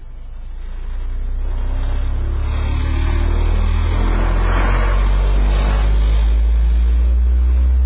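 Elemental Designs E12K.44 12-inch subwoofer in a sealed box playing the deep low end of a test-tone sweep: a steady, very deep bass tone that swells louder over the first two seconds and then holds, with a rattly buzz over it.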